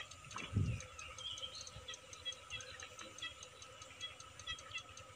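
Small birds chirping in quick, repeated short notes over a faint steady high hum, with a low thump about half a second in.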